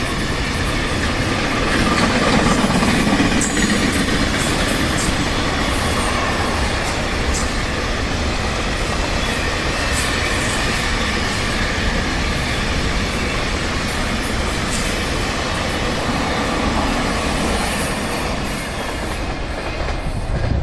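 A train running past on the rails with a steady rumble, the wheels clicking over the track and squealing faintly. The sound cuts off suddenly at the end.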